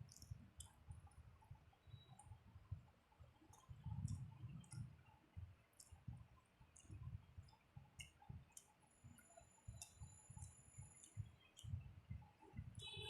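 Quiet close-up eating sounds: irregular soft chewing with small wet mouth clicks.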